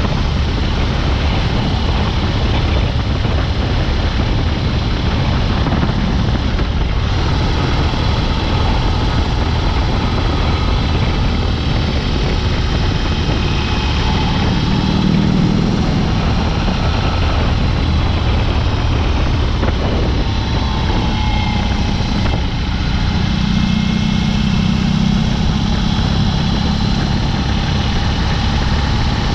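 BMW R18's 1802 cc boxer twin running under way through an open Dr. Jekill & Mr. Hyde aftermarket exhaust, with its pitch and loudness rising and falling with the throttle.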